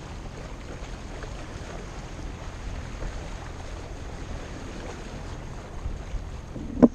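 Steady wind and water noise aboard a sailboat, with wind rumbling on the microphone.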